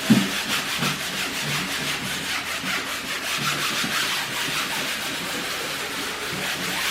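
Stiff-bristled brush scrubbing a treadmill's track in quick, even back-and-forth strokes, working old sticky belt lubricant and mold off it.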